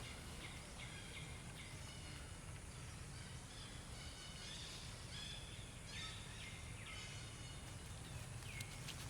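Faint, short high-pitched chirping calls repeated many times, over a steady low background rumble.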